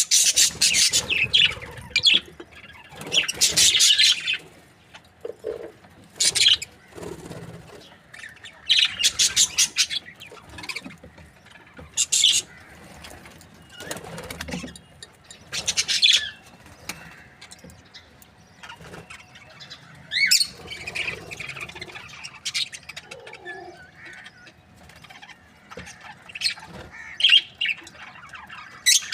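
Budgerigars chirping and chattering in short bursts of rapid, high chirps every few seconds, with quieter gaps between.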